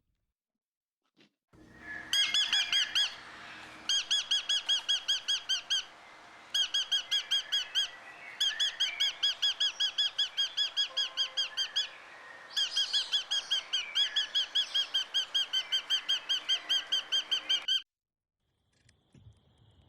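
A bird calling in rapid runs of identical high chirps, about seven a second, in five bouts with short pauses between them.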